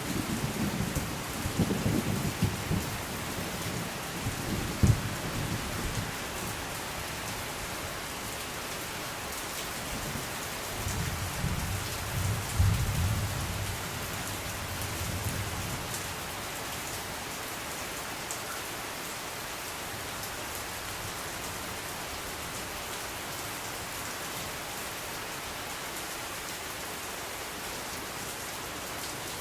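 Steady rain falling, a constant hiss of drops, with low thunder rumbling in the first few seconds and again about halfway through.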